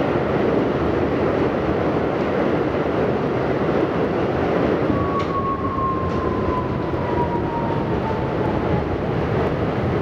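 R68 subway car running along the track, heard from aboard: a steady rumble of wheels on rail and car noise. In the second half a single whine slowly falls in pitch.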